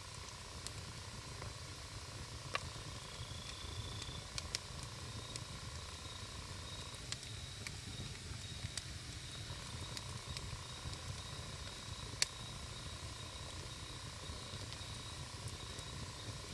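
Wood campfire burning: a steady low rumble with scattered sharp crackles and pops from the burning wood, a few of them louder than the rest.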